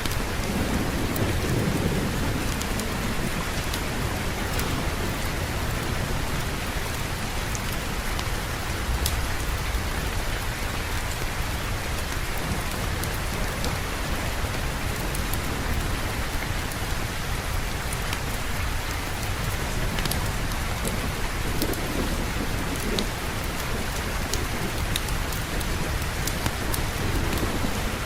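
Steady rain falling, with low rolling thunder rumbling about a second in, again past the middle and near the end. Scattered small ticks sound over the rain.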